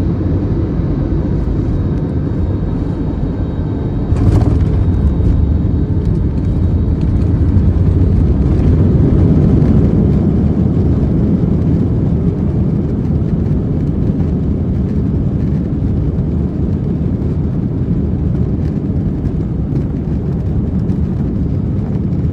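Airbus A321 landing, heard from inside the cabin under a steady low rumble. About four seconds in a sudden thud marks the main wheels touching down. The roar of engines and wheels then builds for several seconds and gradually eases as the aircraft slows on the runway.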